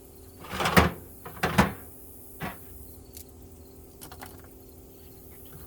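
Metal hand tools being handled and set down in a toolbox: two loud clanks under a second and about a second and a half in, then a few fainter knocks.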